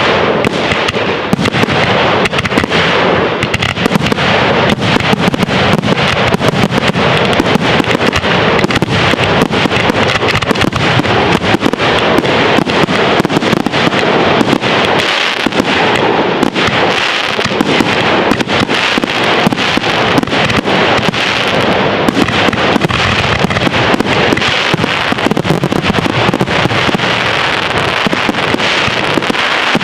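Fireworks display: a dense, continuous barrage of shell bursts and crackling, one bang after another without a pause.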